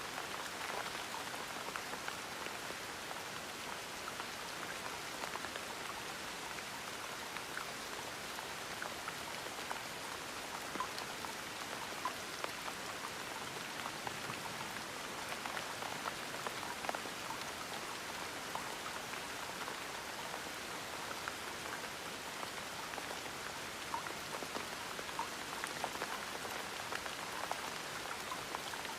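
Steady gentle rain, with scattered individual drops ticking through the hiss.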